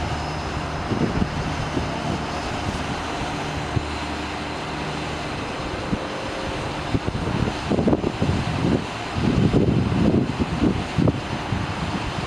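Steady low drone of the Ford F750's 6.7 L PowerStroke diesel engine running, with gusts of wind buffeting the microphone in the second half.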